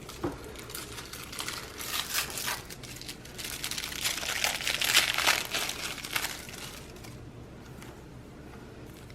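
Packaging crinkling and rustling as it is handled: an irregular run of crackles that is loudest about five seconds in and dies away about two seconds before the end.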